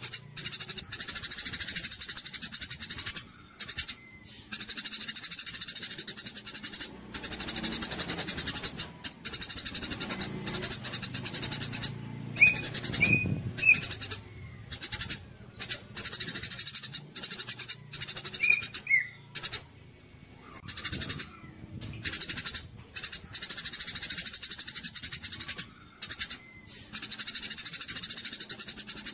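A small songbird's rapid, high-pitched trilling chatter in long phrases broken by short pauses, with a few brief lower chirps around the middle.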